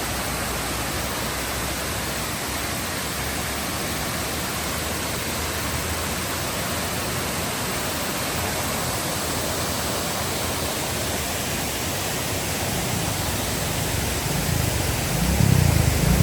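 Waterfall rushing with a steady, even roar of falling water. A low rumble grows louder over the last few seconds.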